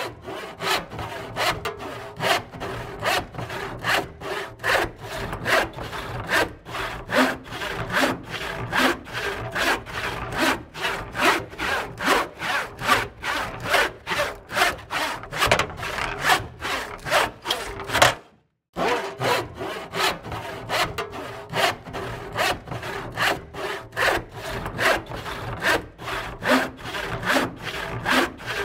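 Hand saw cutting through wood in steady back-and-forth strokes, about two or three rasping strokes a second, with a brief break about two-thirds of the way through.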